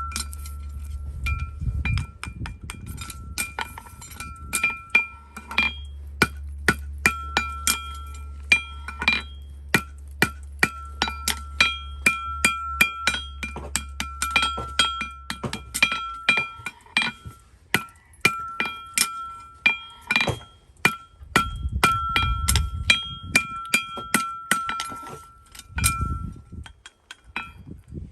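Hammer striking steel in many quick, irregular blows, each ringing with a bright metallic tone, typical of a farrier's hammer on a horseshoe or anvil. A low steady hum underneath stops about halfway through.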